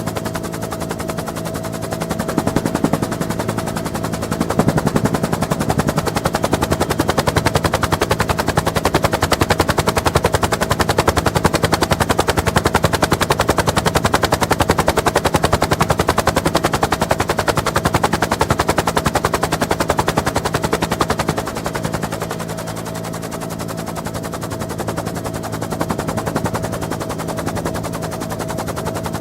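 Twin Huey (UH-1N) helicopter heard on board: fast, steady rotor blade chop over the drone of its twin turbine engines, with a steady whine. The sound eases a little about two-thirds of the way through.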